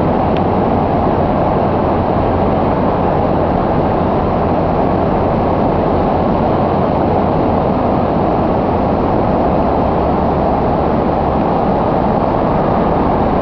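A motor running steadily at one constant speed, with a heavy rushing noise and a low hum.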